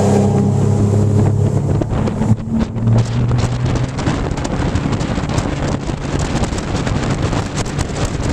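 Honda 250 HP four-stroke V6 outboard running at full throttle as the pontoon boat accelerates. Its steady engine tone is plain for the first three or four seconds, then heavy wind buffeting on the microphone and rushing water take over at speed.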